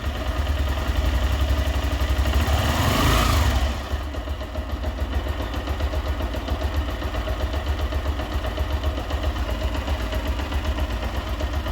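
Honda Titan 2000's 125 cc single-cylinder pushrod four-stroke engine running, briefly revved about three seconds in and then dropping back to a steady idle. It runs quietly without the valve tapping it had, after a new cam, rocker arm and rocker shaft.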